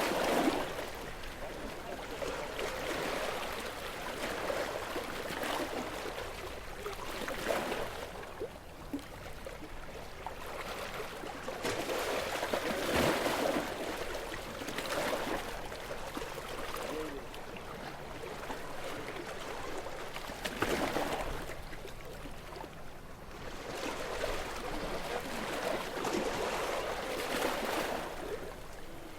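Small, gentle sea waves washing and breaking on a shore, each wave swelling and falling away every few seconds.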